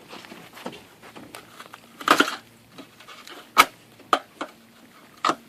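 Handling knocks and clatters: a short scraping clatter about two seconds in, a sharp knock about a second and a half later, then a few lighter clicks.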